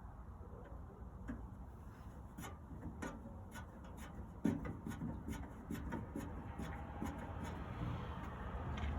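Light clicks and taps of parts and screws being handled during reassembly, with one sharper knock about halfway through.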